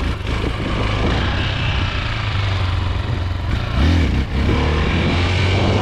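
Chinese 250cc dirt bike engine running under the rider, with a short burst of revs about four seconds in as the front wheel comes up into a wheelie.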